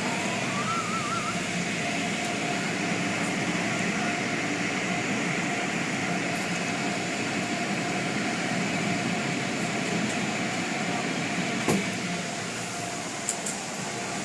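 Steady machine-like noise at an even level, with a faint steady hum running through it and a single sharp click near the end.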